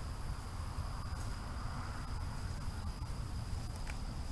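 Steady chorus of insects such as crickets, with a constant high trill, over a low rumble.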